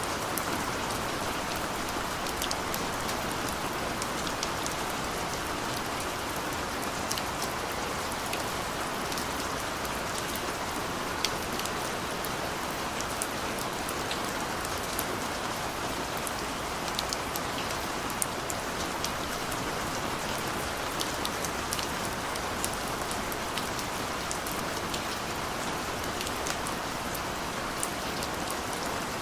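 Steady rain falling on a surface, an even hiss with individual drops pattering and ticking throughout.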